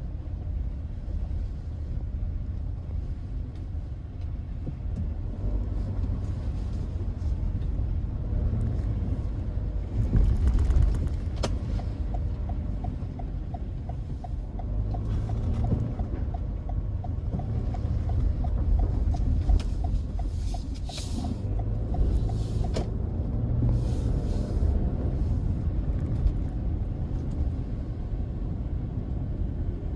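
Car driving, a steady low road and engine rumble. For about ten seconds midway an even, light ticking runs over it, and a few brief hisses come near the middle and later.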